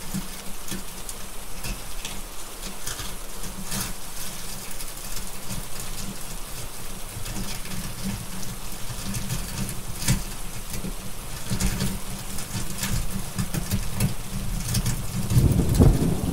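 Steady rain with scattered sharp crackles from a wood fire, and a low rumble of thunder building near the end.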